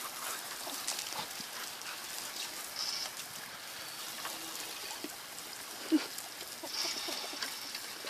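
Running water splashing while a dog snaps and bites at the stream, with a short, loud dog noise about six seconds in.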